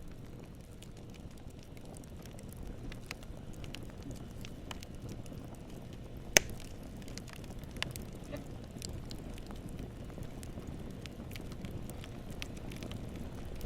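Campfire burning: wood crackling with scattered sharp pops over a low steady rumble, with one louder pop about six seconds in.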